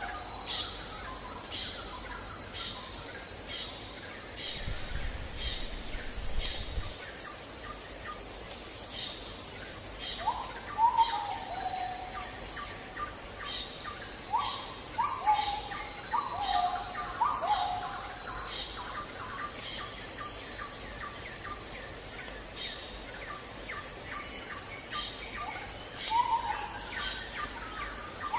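Wild birds singing, with groups of short falling whistled notes, over a steady high trill of insects such as crickets. A brief low rumble comes about five to seven seconds in.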